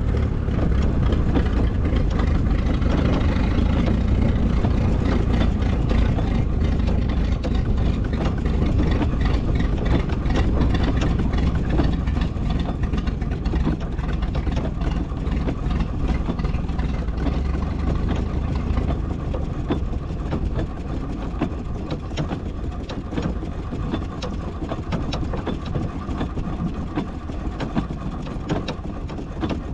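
Miniature steam traction engine running at a crawl, its gearing clattering quickly over a steady low engine hum.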